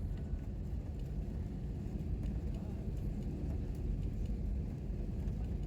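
Airliner cabin noise: a steady low rumble of the engines and airframe around the time of takeoff, with a few faint ticks.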